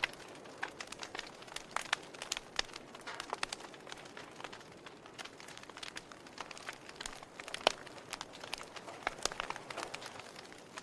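Wood fire in a fireplace crackling, with irregular snaps and pops over a soft hiss; the sharpest pop comes about two-thirds of the way through.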